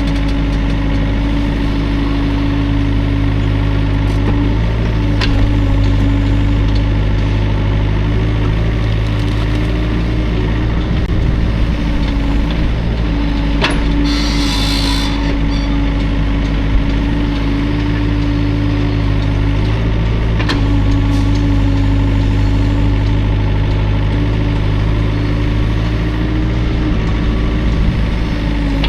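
Hydraulic excavator's engine running steadily under a constant whine, with a few sharp knocks and a brief hiss about halfway through.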